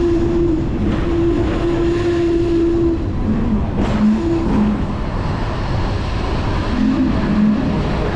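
Hong Kong double-decker tram running: a steady low rumble with a hum that comes and goes.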